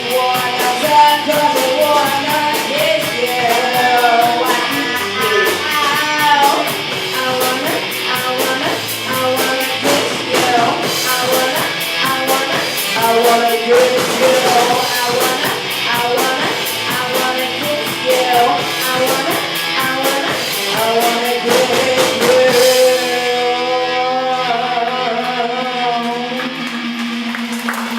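Live rock band playing, with guitars, drums and a melodic lead line over a steady cymbal beat. About 23 seconds in the drums stop and a final chord is held and rings on.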